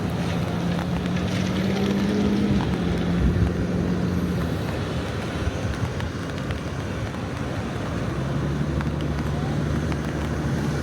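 Road traffic. A vehicle engine hums and rises slightly in pitch over the first couple of seconds, then fades. Another comes in from about eight seconds, over a steady rush of traffic.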